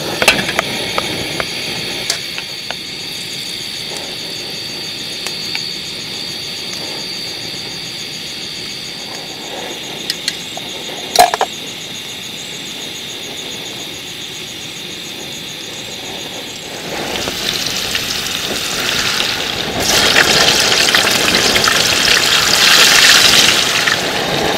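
Food frying in hot oil on a camp stove: a steady low hiss with a few sharp clicks, then a louder sizzle building up about 17 seconds in.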